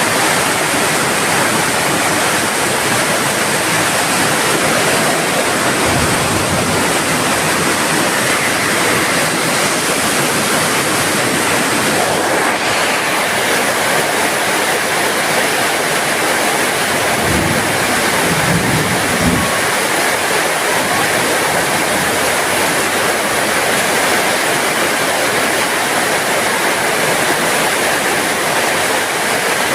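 Heavy rain falling steadily, an even dense hiss, with a few soft low thuds around the middle.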